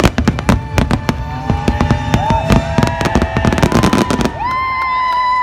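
Fireworks finale: a rapid barrage of bangs and crackles for about four seconds, over orchestral show music that then swells into a long held note.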